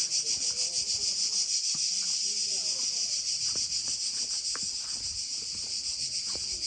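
Cicadas singing in a dense chorus: a steady, high buzz with a fast, even pulse.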